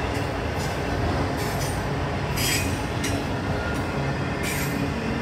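CSX freight train's cars rolling past, a steady rumble of wheels on rail with a few brief, sharper bursts of wheel noise.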